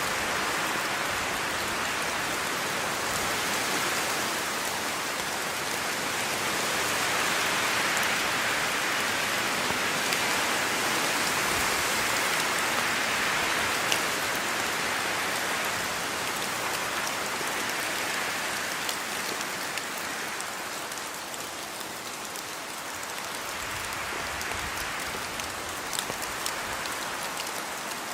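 Steady rainfall: an even hiss of rain with scattered individual drops ticking through it, swelling slightly in the middle.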